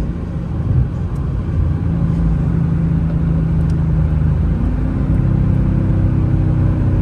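Ford Mustang GT's 5.0 V8 engine running while driving slowly, with a steady low tone that rises a little about five seconds in.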